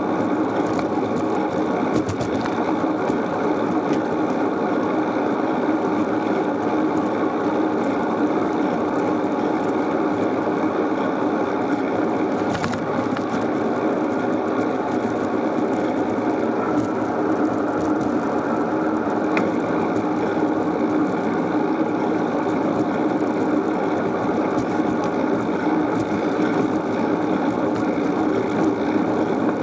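Steady riding noise from a moving bicycle: wind and tyre rush on the microphone, with a few brief rattles and clicks.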